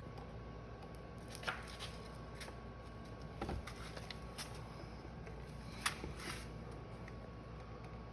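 Faint scattered clicks and taps of a soldering iron and hands working the plastic of a cracked bumper while tack-welding it, over a steady low hum and a faint steady high tone. The louder taps come about a second and a half in, three and a half seconds in, and near six seconds.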